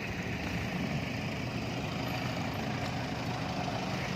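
Steady rumbling noise of riding a bicycle through the streets, with no distinct events.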